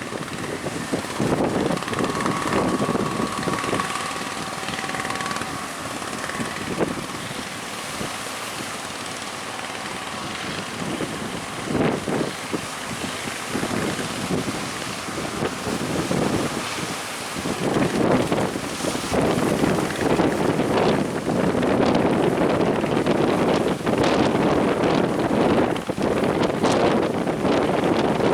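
Strong wind buffeting the microphone on a boat heading out through rough sea, in gusts that grow heavier in the second half.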